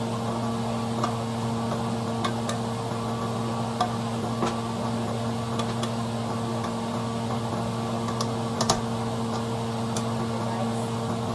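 A pot of beef and tomato simmering, with scattered sharp ticks and pops a second or more apart, the loudest near the end, over a steady low hum.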